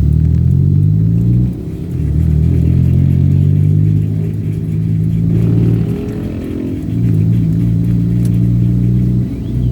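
Vehicle engine accelerating up through the gears. Its pitch climbs, drops briefly at each shift about a second and a half in, around six seconds and near the end, then climbs again.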